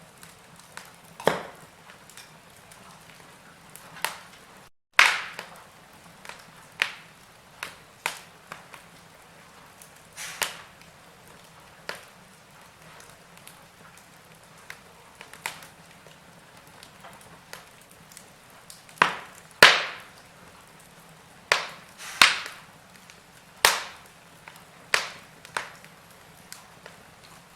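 Wood fire in a fireplace crackling: irregular sharp pops and snaps, sometimes several in quick succession, over a soft hiss of burning. The sound cuts out completely for a moment about five seconds in.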